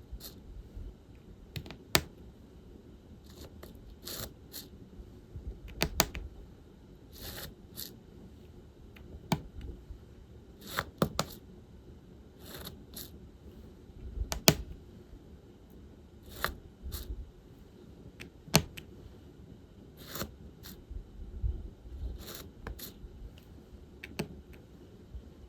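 Diamond painting work: irregular sharp clicks and short scraping rustles of resin drills being picked up and pressed onto the canvas and shifted around plastic trays, a few seconds apart.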